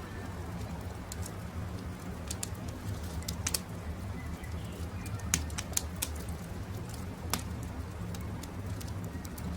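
Wood campfire crackling, with scattered sharp pops over a steady low rumble, and faint birds calling in the background.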